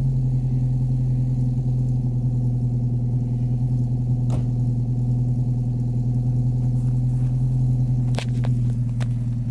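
Four-cylinder Holden Commodore engine idling steadily with a low, even hum. A short sharp click sounds about four seconds in, and a few more near the end.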